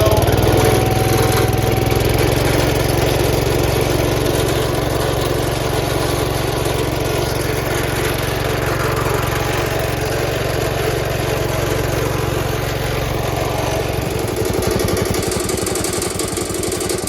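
Gravely Commercial 12 walk-behind tractor's single-cylinder engine running steadily just above idle, freshly started after a hard start on primed fuel. Its pitch rises briefly at the start, and its low note changes about fourteen seconds in.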